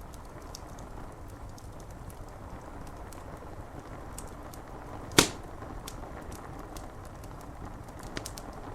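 Rain pattering on window glass with a wood fire crackling: scattered small crackles over a steady rain hiss, and one loud sharp pop from the fire about five seconds in.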